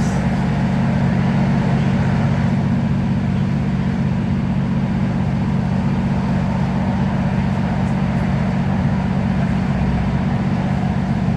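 Class 156 'Super Sprinter' diesel multiple unit running with its Cummins six-cylinder diesel engine giving a steady low drone, over constant rail and running noise.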